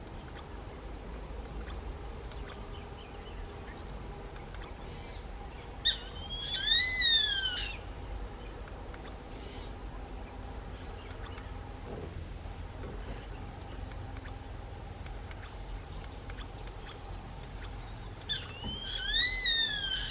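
White-eyed buzzard calling twice, about twelve seconds apart. Each call is a short sharp note and then a long whistle that rises and falls again. It is the male's call to entice the female during the mating display.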